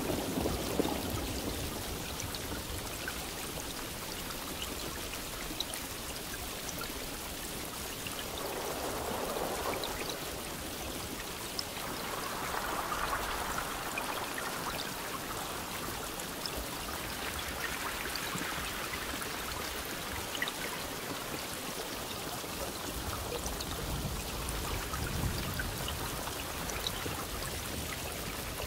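Steady rain falling, an even hiss of water with many small drops ticking through it.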